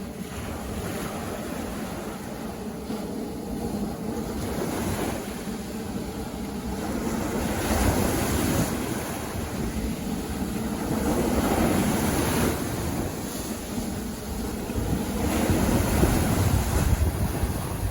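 Mediterranean surf breaking and washing up the beach, a steady rush that swells louder every few seconds as each wave comes in.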